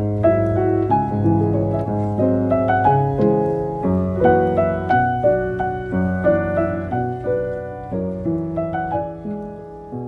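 Background piano music, a gentle melody of notes played over a steady bass, slowly fading toward the end.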